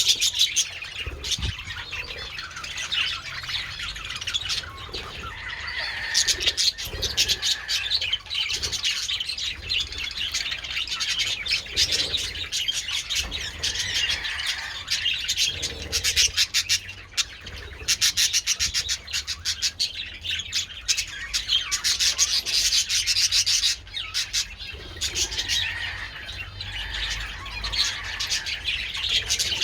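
A flock of budgerigars chattering, a steady mass of fast warbling and chirping with many rapid clicky notes.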